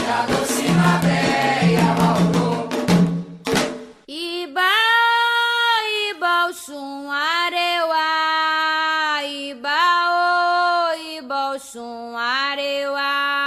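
Candomblé chant with atabaque drums and a group of singers, which breaks off about four seconds in. A single voice then sings the next chant alone, without drums, in long held notes.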